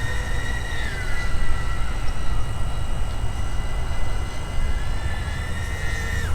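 DJI Avata 2 FPV drone's propellers whining in flight, a steady high-pitched whine that dips slightly about a second in and falls away near the end. Heavy wind rumble on the microphone underneath.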